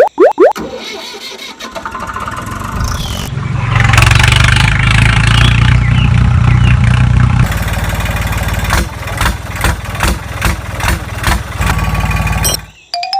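An engine starting up and running steadily for a few seconds, then running unevenly in sputtering pulses before cutting off near the end.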